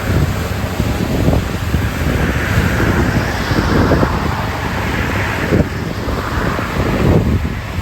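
Strong wind buffeting the microphone: a heavy low rumble with frequent gusts, over a steady rushing hiss.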